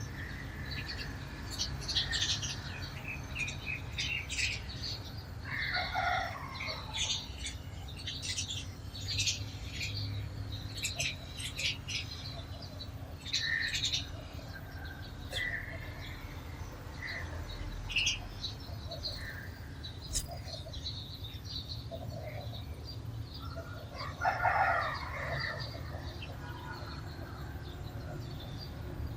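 Sparrows chirping in many short, high bursts, with wing flutters. Twice, about six seconds in and again near the end, a lower, longer bird call stands out above the chirping.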